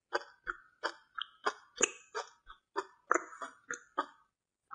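Close-up chewing of a crunchy mouthful, a steady run of crisp crunches about three a second that stops shortly before the end.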